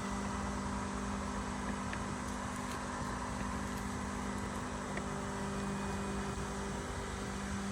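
Mammotion Luba 2 robotic lawnmower running as it cuts grass: a steady electric motor hum with a constant low tone.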